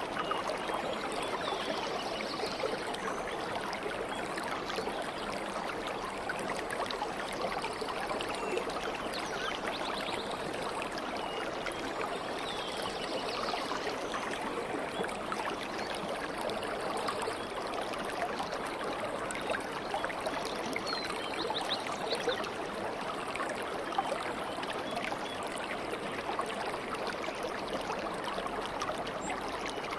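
Stream of water babbling and trickling steadily, with a few faint high bird chirps now and then.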